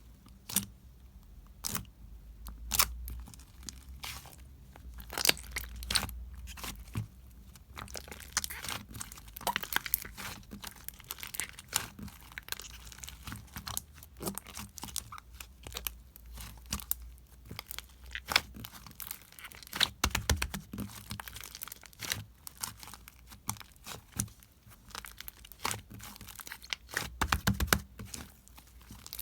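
Clay slime being mixed and worked by hand, making many irregular sharp clicks and pops.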